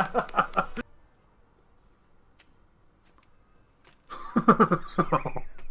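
A voice trails off at the start, then about three seconds of near silence (room tone), then a voice again about four seconds in.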